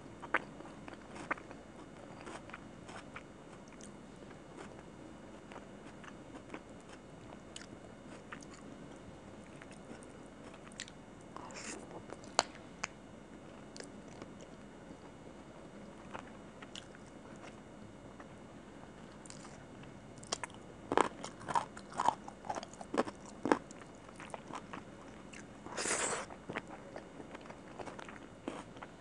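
Close-miked eating: chewing mouthfuls of rice and chicken curry eaten by hand, with scattered wet mouth clicks. About two-thirds through comes a quick run of sharp crunches, and near the end a longer crisp crunch, as she bites raw onion.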